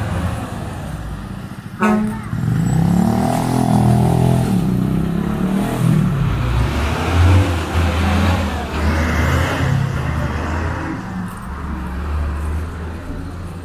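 Street traffic: a motor vehicle's engine running close by, with a short horn toot about two seconds in.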